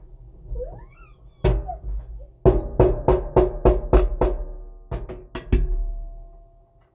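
Drum hits in music: a single strike, then a quick even run of about nine strikes, then two more, after a short rising gliding tone.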